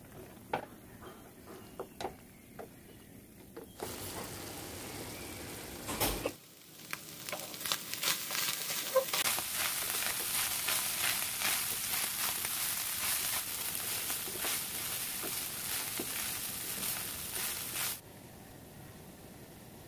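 Minced meat (keema) sizzling loudly in a nonstick frying pan, its liquid cooked off, while a wooden spatula stirs and scrapes it with repeated strokes. A few light clicks come first, and the sizzling cuts off abruptly near the end.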